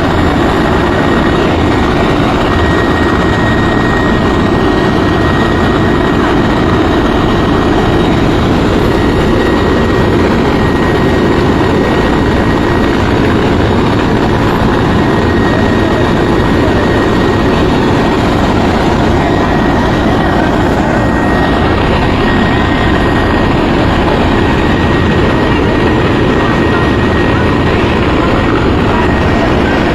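Helicopter running close by, its rotor noise loud and unbroken, with a thin steady high whine over it.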